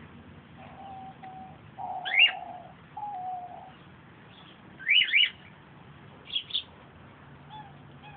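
Baby bird chirping: a few short, sharp, sweeping chirps, one about two seconds in, a quick pair around five seconds and another pair at about six and a half seconds. A lower, steadier tone comes and goes during the first few seconds.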